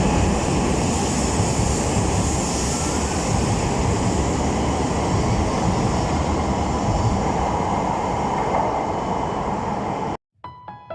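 Train running: a steady rumble and hiss of wheels and rails, cutting off abruptly about ten seconds in, where piano background music begins.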